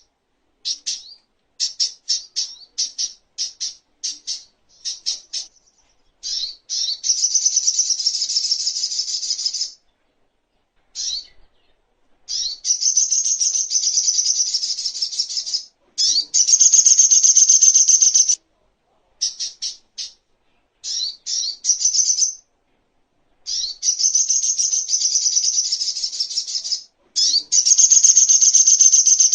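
Sogok ontong (little spiderhunter) singing: runs of sharp, high-pitched chirps alternating with long, rapid trilled phrases of about three seconds each, separated by short pauses.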